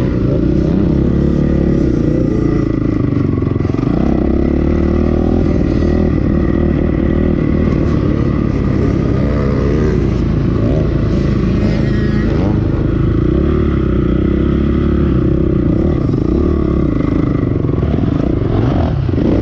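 2008 Honda CRF450R's single-cylinder four-stroke engine running under load on a lap, its note rising and falling with the throttle.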